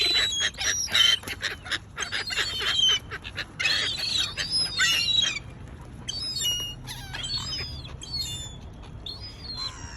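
A flock of gulls and other waterbirds calling over one another, competing for bread. The calls are short and high and crowd together in the first half, then thin to scattered calls after about five seconds.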